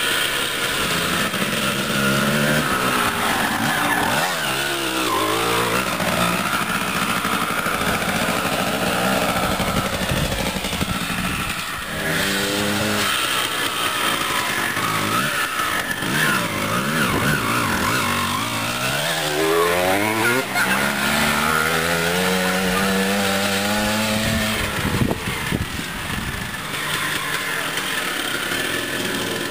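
Suzuki dirt bike engine running as the bike is ridden around, its pitch climbing and falling several times as the throttle is opened and closed.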